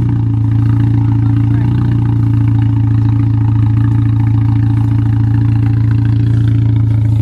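A car engine running at a steady speed, a low, even drone that does not change.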